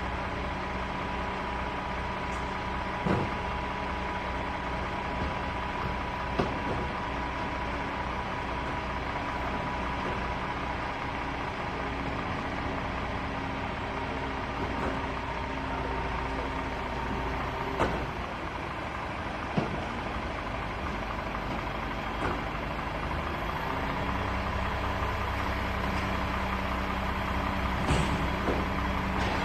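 Heavy diesel engine of a crane truck running steadily, with a few short knocks. The engine note gets fuller and a little louder about three quarters of the way through.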